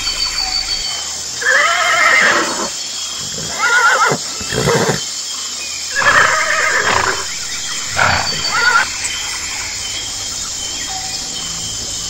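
Horse neighing: about five whinnies, wavering and falling in pitch, in the first nine seconds, over a steady hiss.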